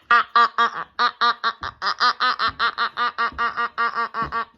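A cartoon character laughing in a long, unbroken string of short, even "ha" syllables, about five a second, at a steady pitch.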